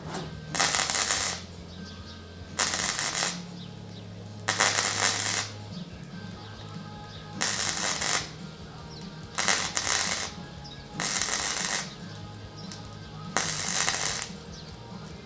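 Welder laying tack welds on sheet steel: seven short crackling bursts, each under a second, coming every second and a half to two seconds.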